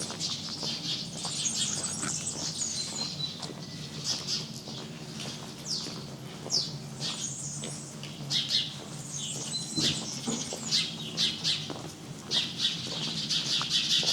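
Songbirds chirping and singing, a busy run of short chirps and quick downward-sweeping notes, over a steady low hum.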